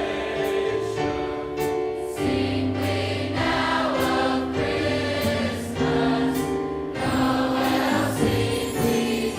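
A large mixed choir singing a Christmas song with instrumental accompaniment, with a steady beat throughout.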